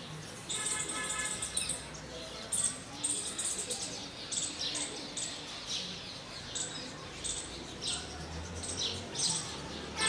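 Birds chirping in short high chirps, about two to three a second. About a second in there is a brief call with several stacked tones.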